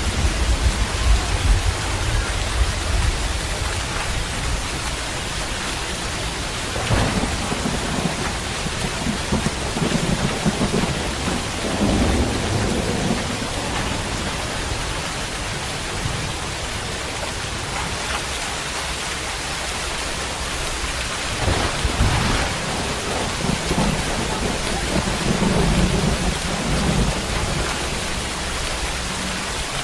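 Steady heavy rain falling, a continuous hiss, with deep low rumbles swelling and fading several times.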